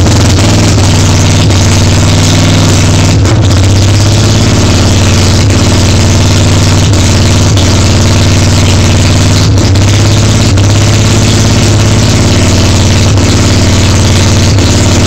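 Street-ported Mazda 12A two-rotor rotary engine on a Weber 48 IDA carburettor idling after a hard start, the pitch settled and steady with brief wobbles every few seconds.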